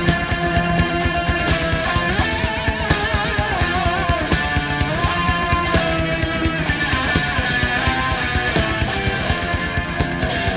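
Instrumental hard rock: an electric guitar lead plays wavering, bending notes over a steady drum beat and bass.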